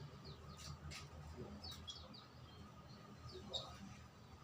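Small songbirds chirping: scattered short, high, downward-sliding chirps over a low steady hum, with a few sharp clicks in the first two seconds.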